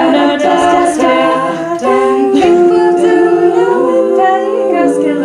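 A cappella vocal group singing sustained chords in harmony, voices only with no instruments, the chord shifting every second or so.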